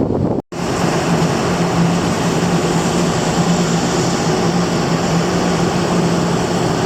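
Wind buffeting stops at a cut about half a second in. After it comes the steady drone of a large car ferry's machinery, a low hum held at one pitch over an even rush of noise.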